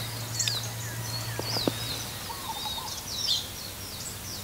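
Wild birds chirping and calling: many short, quick rising and falling calls overlapping, with a few lower calls about halfway through.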